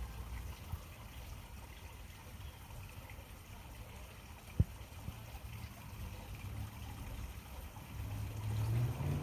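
Steady low rumble with one sharp click about four and a half seconds in; near the end a motor's hum comes in and grows louder.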